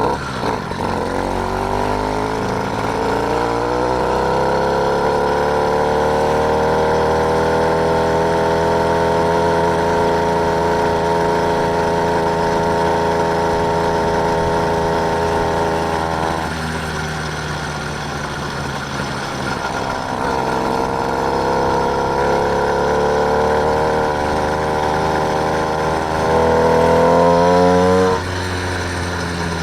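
Small engine of a motorised bike under way, its pitch climbing over the first few seconds as it speeds up, then running steadily. About halfway through it eases off, then picks up again, rising to its loudest before being throttled back near the end.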